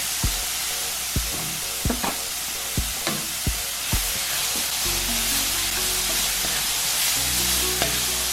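Cauliflower rice and grape tomatoes sizzling in oil in a frying pan, stirred, with a few sharp knocks at uneven intervals in the first half.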